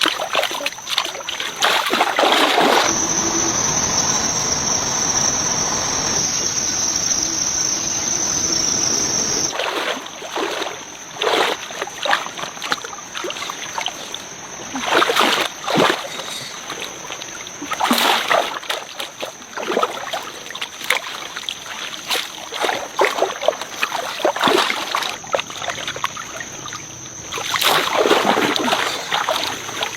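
Water splashing and sloshing in irregular strokes, with a steady rush of running or pouring water from about three seconds in to about nine and a half seconds in. A steady high tone runs underneath.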